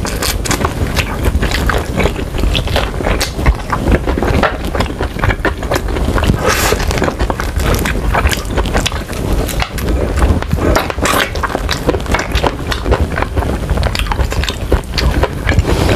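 Close-miked chewing and biting of sauce-glazed spicy chicken wings, a dense run of many sharp clicks.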